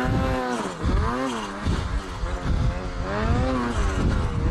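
Snowmobile engine with a GGB aftermarket exhaust revving hard, its pitch dropping and climbing again several times.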